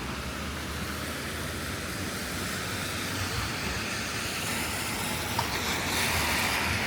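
Steady hiss of rain and wet street noise, with traffic. The hiss swells near the end.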